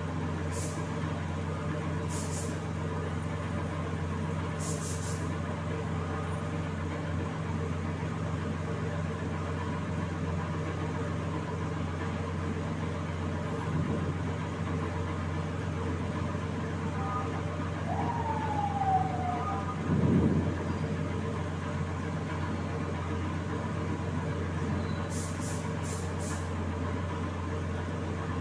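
Steady machine hum, such as a workshop air compressor, with several short hisses of compressed air, three of them close together near the end. About two-thirds of the way through there is a brief falling whistle, then a thud.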